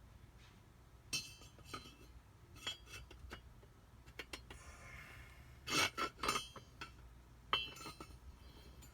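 Metal jet-pump parts clinking and knocking together as they are handled and fitted, with a short scraping rub near the middle. The loudest knocks come about six seconds in, and a sharp clink near the end.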